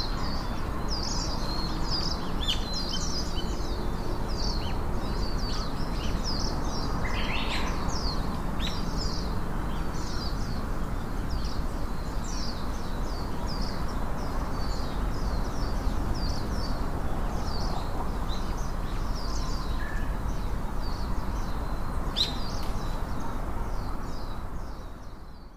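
Small birds chirping and twittering continuously, many short high calls a second, over a steady background hiss; the sound fades out at the end.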